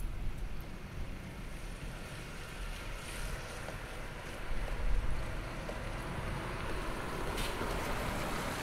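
Rain and wind hissing steadily, swelling louder near the end, with a brief low rumble about halfway through.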